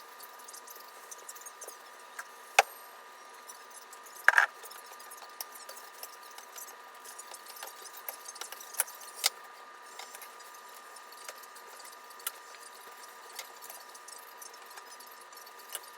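Scattered small clicks and taps, a few of them sharp, over a faint steady hum.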